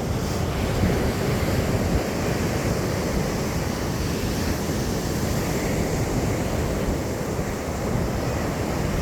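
Ocean surf washing onto a beach, mixed with wind buffeting the microphone; a steady, unbroken rush heaviest in the low end.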